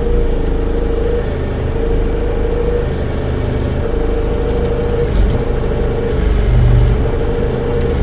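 Tractor engine running steadily, with a whining tone that comes and goes about six times while the slab is being worked onto the machine.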